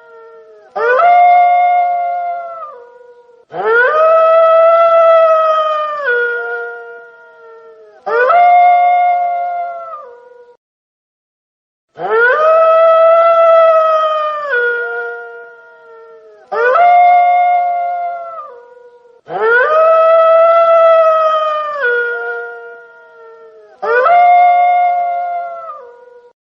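Wolf howling: about seven long howls in a row, each rising quickly to a held note and then stepping down in pitch as it fades, with short gaps between them and a longer pause about eleven seconds in.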